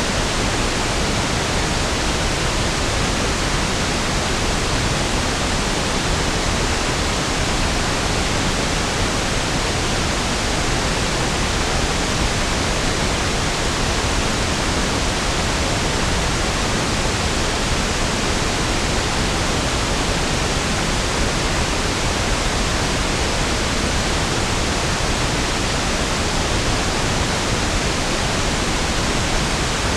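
Steady pink noise: an even, unchanging hiss with equal energy per octave, fuller in the low end than white noise.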